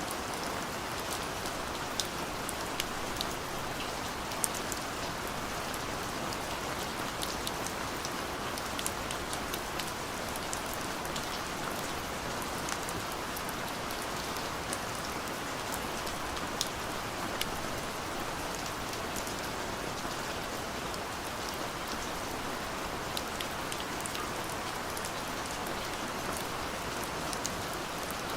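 Steady rainfall, with the sound of individual drops pattering and ticking on a surface over an even hiss of rain.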